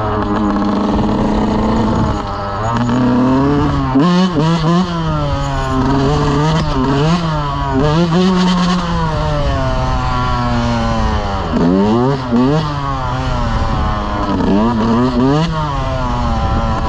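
Dirt bike engine revving up and down over and over, with quick throttle blips between steadier stretches.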